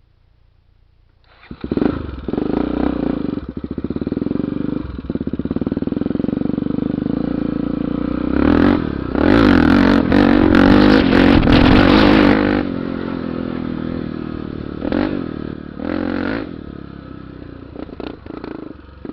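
Honda XR 250 Tornado single-cylinder four-stroke dirt-bike engine running. It comes in about a second in, is revved hard and loud for about four seconds around the middle, then settles back to a lower run with a few short throttle blips near the end.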